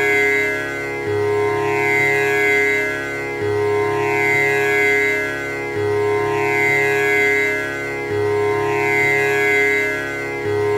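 Tanpura drone: its strings are plucked in a repeating cycle about every two and a half seconds, each round opening with the low string, and the tones ring on with a buzzing shimmer.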